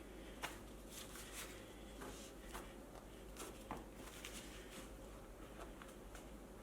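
Faint scattered clicks, taps and rubbing from hands working a scooter tyre's bead onto the wheel rim of an electric unicycle, with one sharper knock about half a second in.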